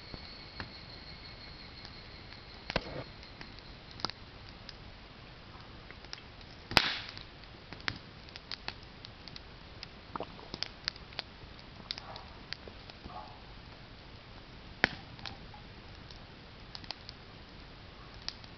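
Wood bonfire crackling, with irregular sharp snaps and pops and one loud crack about seven seconds in. A faint high, steady higurashi cicada call fades out in the first few seconds.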